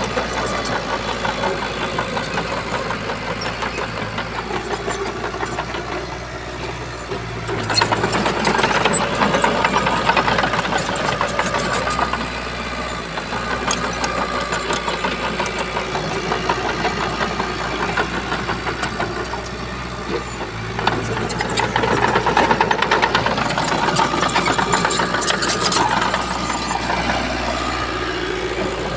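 Shantui bulldozer's diesel engine running steadily with a fast clatter. It grows louder for a few seconds twice, about eight seconds in and again about twenty-one seconds in.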